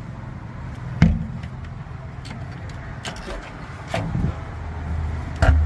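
A few sharp knocks and clunks from fittings being handled on a plate aluminium fishing boat, the loudest about a second in, over a low steady rumble.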